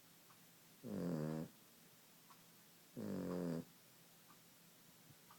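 Maltese dog snoring: two pitched snores about two seconds apart, each lasting about half a second.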